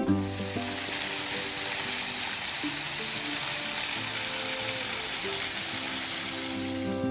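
Rushing water of a small waterfall, a steady hiss that cuts in and cuts off abruptly, with background music underneath.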